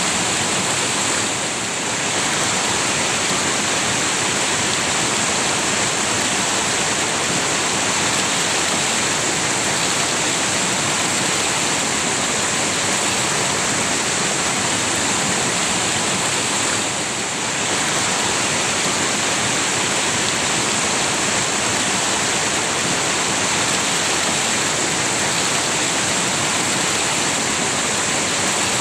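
River water rushing steadily, a dense even noise that dips slightly for a moment twice.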